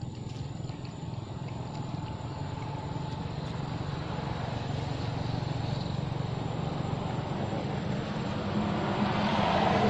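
A motor vehicle's engine running with a low hum, growing steadily louder as it comes closer and loudest near the end.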